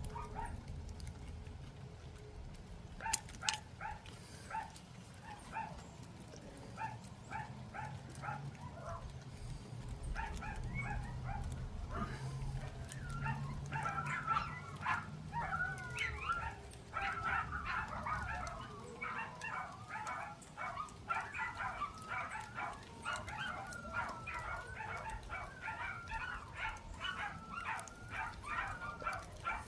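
A dog whining and yipping in short repeated calls that come more often and turn into long, wavering whines about halfway through.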